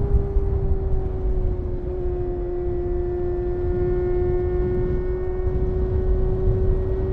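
Honda CBR250RR MC22's high-revving 249 cc inline-four engine running while riding, its pitch easing down slightly in the first two seconds and then holding steady at high revs over a low rushing noise.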